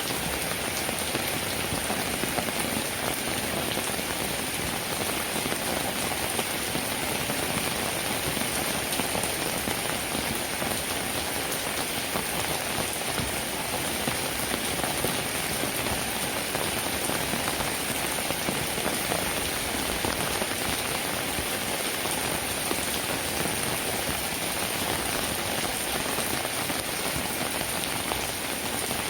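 Steady rainfall: a dense, even hiss of rain with fine scattered drop patter, unchanging throughout.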